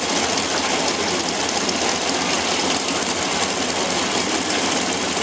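Propeller aircraft engine running steadily, a constant rumble with no change in level.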